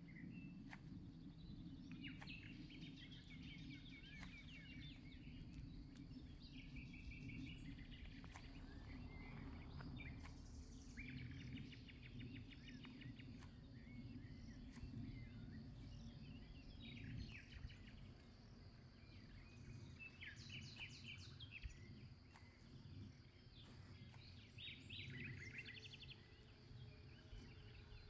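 Songbirds singing, short rapid trilled phrases that come every few seconds, over a steady low rumble.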